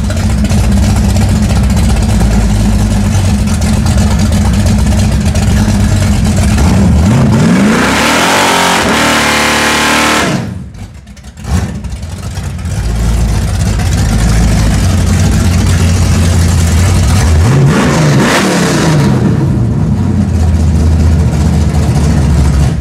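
Cammed small-block Chevy V8 of a 1987 Pontiac Trans Am running loud with a lopey idle. About seven seconds in it revs up hard and holds high revs for a few seconds while the rear tyres spin in a smoky burnout, then drops off with a quick blip. It is revved again about eighteen seconds in and settles back to a steady loud rumble.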